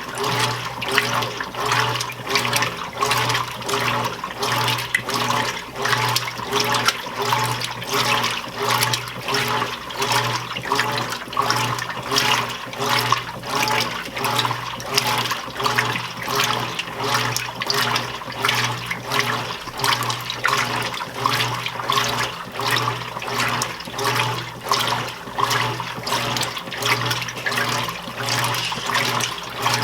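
Admiral belt-drive top-load washing machine agitating a medium load in the wash: water sloshes and the motor hums in a steady, even rhythm as the single-action agitator swings back and forth.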